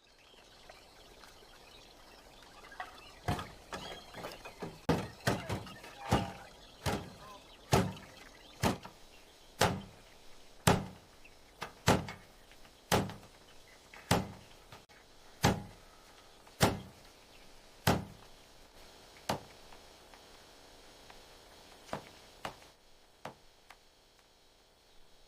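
A series of sharp knocks, roughly one a second, each with a short ringing tail; they start a few seconds in, stop after about sixteen seconds, and two faint ones follow later.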